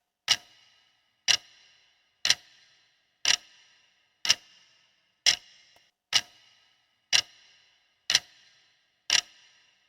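Quiz countdown timer ticking like a clock: ten sharp ticks about one second apart, each with a short ringing tail, counting down the answer time.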